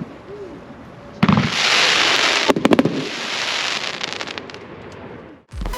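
A shot from T-Sky's Lady Liberty 500 gram firework cake goes off about a second in: a sudden bang followed by a loud hissing spray. A quick cluster of sharp pops comes about a second and a half later, and then the hiss fades away.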